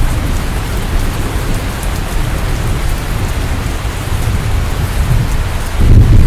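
Steady heavy rain, with a low rumble underneath that swells louder near the end.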